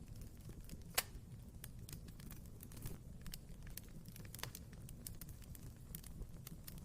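Wood fire burning in a fireplace, crackling with irregular sharp pops over a low steady rumble; the loudest pop comes about a second in.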